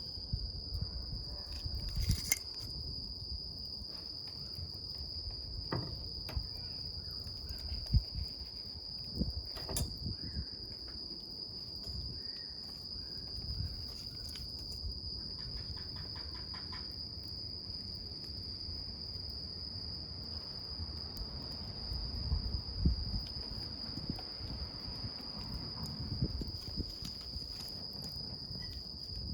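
Wood campfire burning, with soft low rustling of the flames and scattered sharp crackles and pops, the loudest about eight seconds in. A steady high-pitched tone runs underneath.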